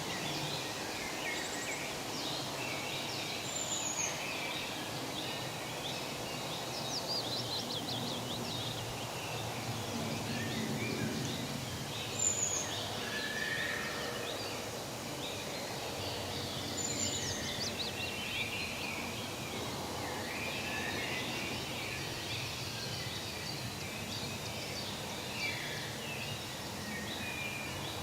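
Forest ambience: many birds chirping and trilling over a steady background hiss. A short, high, falling whistle repeats a few times, several seconds apart.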